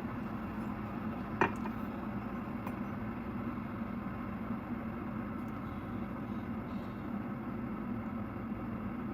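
Glass electric kettle (Mueller Ultra Kettle) heating water close to a rolling boil: a steady rumble with a low hum. One sharp click about a second and a half in.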